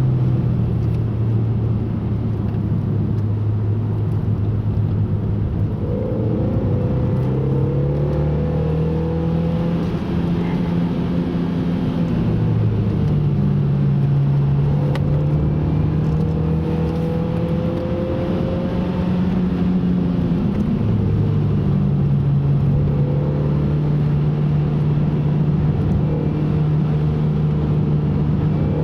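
Car engine being driven hard around a circuit, its note stepping up and down in pitch several times as the revs change through gear shifts and lifts, over steady road and tyre noise.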